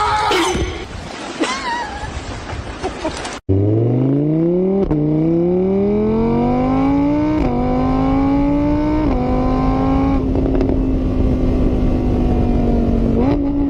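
After a sudden cut, a car engine accelerating hard. Its pitch climbs, drops sharply at each of four gear changes, then holds steady near the end. Before the cut there is a quieter mixed stretch.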